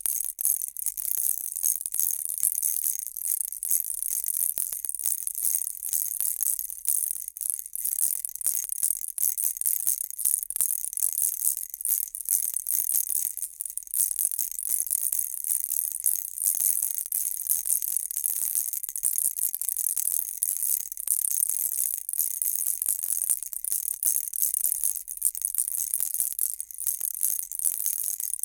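Baby rattle shaken without a break: a dense, high, bright rattling of many quick small clicks.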